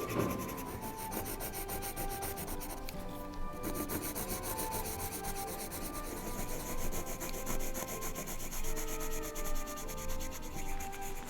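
Pencil rubbing and scratching across paper in continuous shading strokes.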